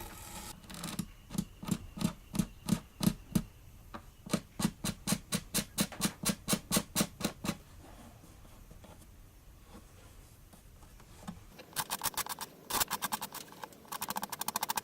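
Hand scraping strokes along the edge of an acoustic guitar's body binding, about four a second for several seconds, then a pause, then faster, lighter strokes near the end: taking down the sharp edges left around a repaired split.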